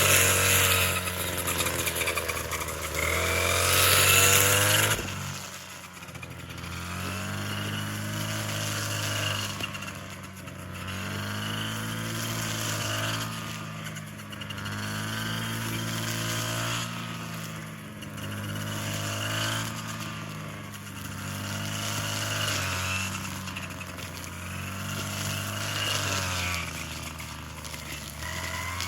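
Small petrol engine running loud for the first few seconds, then revving up and down over and over, about once every two seconds.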